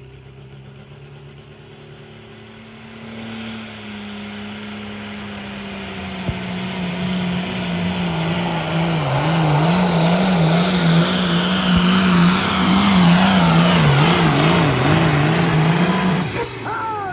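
International pulling tractor's diesel engine running under full load as it pulls the weight sled. It starts low, builds about three seconds in, and the engine note wavers up and down as it works, then drops away suddenly near the end.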